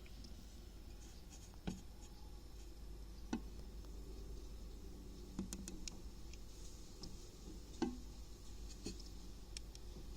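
About five light clicks and taps, a second or two apart, over a steady low hum.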